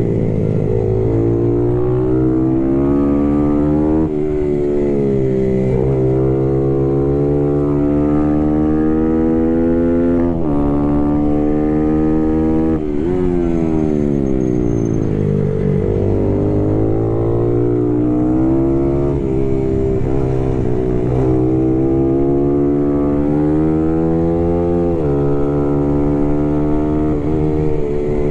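Small race motorcycle's engine heard from on board: it revs up through the gears, its pitch dropping sharply at each upshift, and winds down as the bike slows, about a second in and again around the middle, before climbing again.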